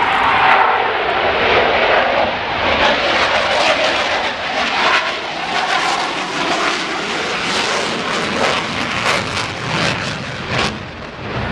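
Jet aircraft flying low past the crowd, a very loud, steady rushing engine noise.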